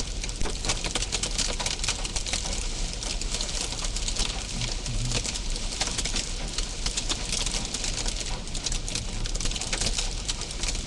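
Hailstones pelting a vehicle's roof shield in a dense, continuous clatter of rapid hits, with no let-up.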